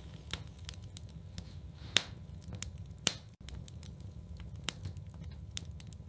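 Wood fire burning in a fireplace, crackling with irregular snaps over a steady low rumble, with two loud pops about two and three seconds in.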